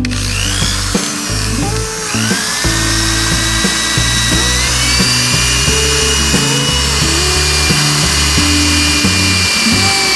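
A high-speed electric power tool whining, its pitch rising twice before holding steady, over a hiss. Background music with a bass line plays throughout.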